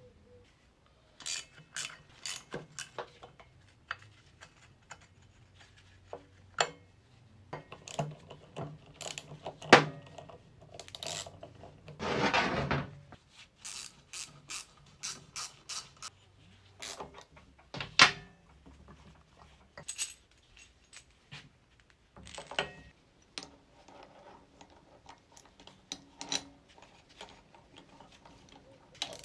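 Metal tools and parts clinking and knocking while a Yamaha KT100 kart engine is taken apart: scattered sharp clicks and clanks, with a rushing noise lasting about a second about twelve seconds in.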